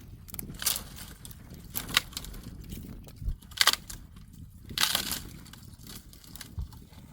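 Dry twigs and brushwood crunching and crackling in about four separate short bursts.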